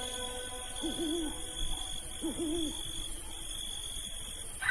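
Owl hooting twice, short low calls that rise and fall, about a second apart, over a steady high-pitched drone in the background.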